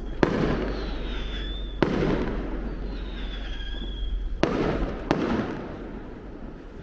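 Fireworks going off: four sharp bangs, each trailing a rumble, with high whistling tones between them. The bangs stop about two-thirds of the way through and the rumble dies down.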